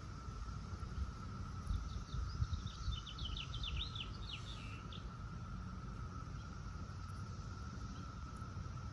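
Distant chorus of 17-year periodical cicadas, a steady high-pitched hum. About two seconds in, a bird sings a quick run of chirps lasting about three seconds, over a low rumble.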